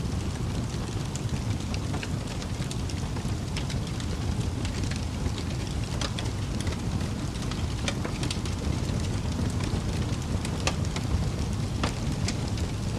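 Wood fire burning in a fireplace: a steady low rumble of flames with sharp crackles and pops scattered irregularly, several a second.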